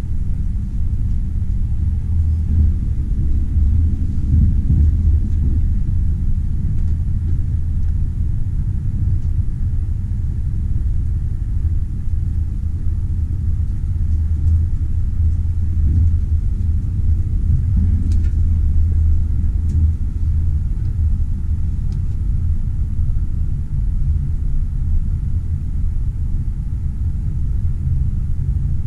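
Passenger train running, a steady low rumble with a few faint clicks about two-thirds of the way through.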